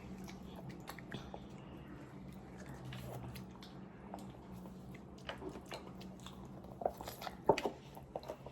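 Quiet chewing and eating of instant ramen noodles, with small scattered mouth clicks and a few sharper clicks about seven seconds in, over a steady low hum.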